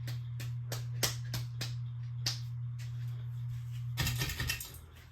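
Encon Crusader ceiling fan running with a steady low motor hum and a quick, irregular clicking. About four seconds in there is a short burst of noise and the hum drops away.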